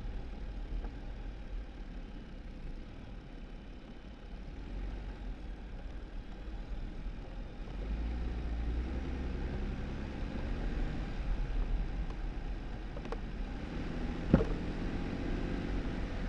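2018 Jeep Wrangler driving over a snow-covered dirt road: steady engine and tyre rumble that grows louder from about halfway in. A sharp knock comes near the end.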